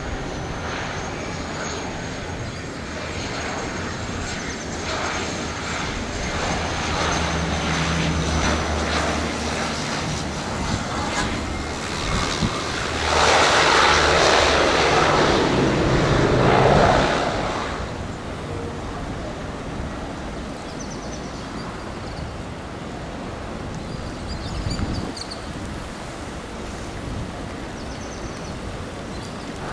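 Airliner's engines running as it passes close by, with a high whine early on and a steady low hum. The noise swells to its loudest about halfway through, then eases off.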